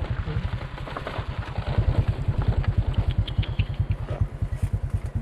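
Motorcycle engine running at a steady low speed, its exhaust giving a fast, even pulsing beat, with some light rattling.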